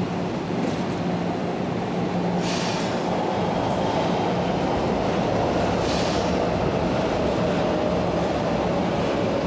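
Electric commuter train noise at a station platform: a steady hum and rumble, with two short hissing bursts about two and a half and six seconds in.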